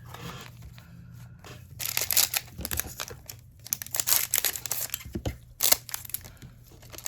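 Plastic trading-card pack wrapper crinkling and tearing as a pack is opened, in several short bursts.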